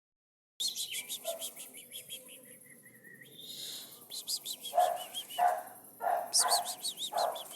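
A bird singing in rapid trilled runs of high chirps, and from about halfway through a dog barking repeatedly.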